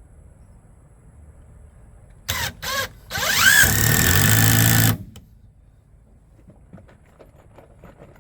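Electric power tool motor pulsed twice with short trigger squeezes, then run for about two seconds, its pitch sweeping as it spins up before it cuts off.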